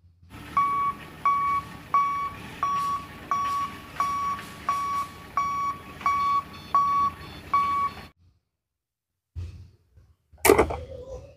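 A forklift's warning beeper sounding a steady run of short, even beeps, about three every two seconds, stopping about 8 seconds in. A few faint knocks follow near the end.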